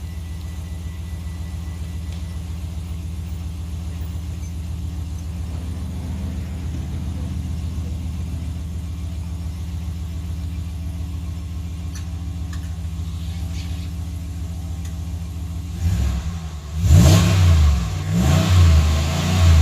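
A 2019 Ram 1500 pickup's engine and exhaust idling steadily, then revved hard a few times near the end.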